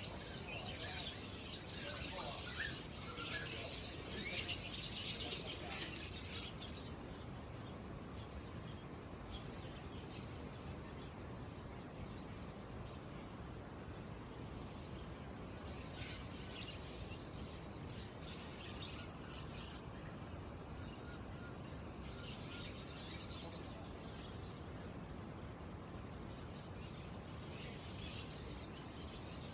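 Many caged songbirds chirping and calling over a steady high-pitched trill, with a few sharp loud chirps.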